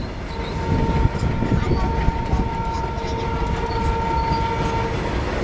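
Goods train of open-top wagons rolling past close by: a steady rumble of wheels on rail, with a thin, steady high squeal of wheels on rail over it that stops near the end.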